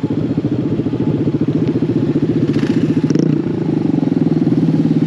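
Small mini bike engine running under way, with a steady pulsing exhaust and a brief rev and drop in pitch about three seconds in.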